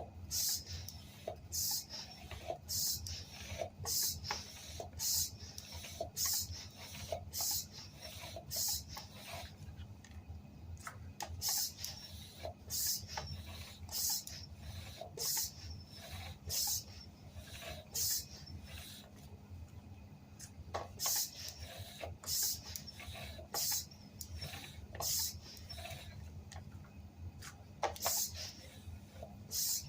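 Bicycle tyre pump being worked by hand, a short hiss of air with each stroke at about one and a half strokes a second, with a couple of brief pauses.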